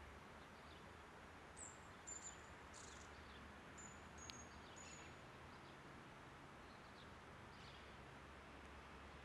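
Near silence: faint steady background rumble with a few short, high bird chirps in the first half and a single faint tick near the middle.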